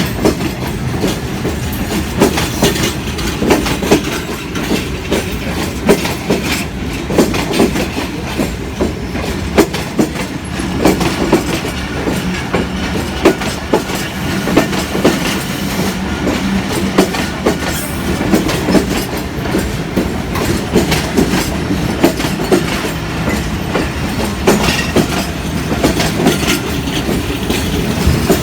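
A train running on the track: a steady rumble with frequent sharp clicks and clacks of wheels over rail joints.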